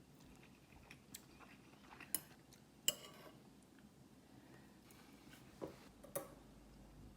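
Cutlery clinking lightly against dishes during a meal: a few separate sharp taps spread over several seconds.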